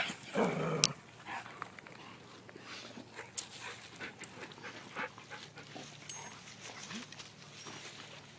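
A dog's short vocal sound in the first second, then faint scattered ticks and rustles as the dogs move about.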